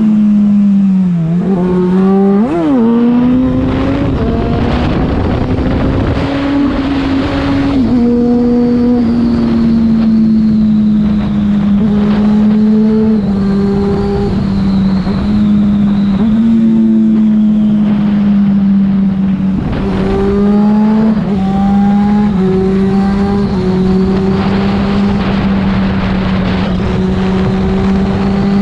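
Yamaha FZ6's 600 cc inline-four running through a Leovince aftermarket exhaust while riding, held at a fairly even engine speed. About two to three seconds in the revs dip and then jump briefly.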